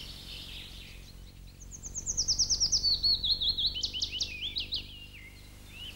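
A songbird singing one song: a quick run of high repeated notes falling in pitch, ending in a short flourish, starting about a second and a half in and lasting some three seconds. A faint steady background hum lies underneath.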